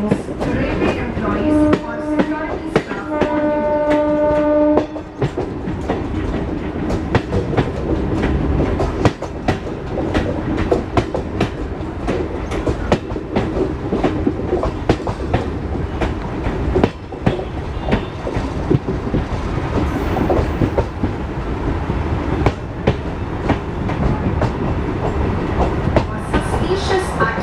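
A train running along the track with a steady rumble and many clattering clicks of the wheels. A horn sounds twice near the start, briefly and then for about two seconds.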